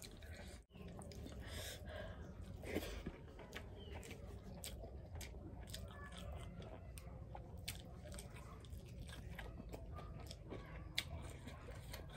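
A person chewing food close to the microphone, with many short wet mouth clicks and smacks and some crunching.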